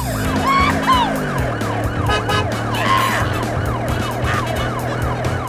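A siren warbling quickly up and down, about two to three sweeps a second, over music with a steady beat and a held low note.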